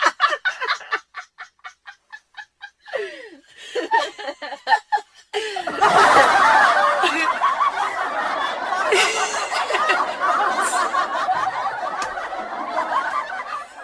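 Laughter: a run of short laughing bursts that fade over the first few seconds, then, from about five and a half seconds in, many people laughing loudly at once.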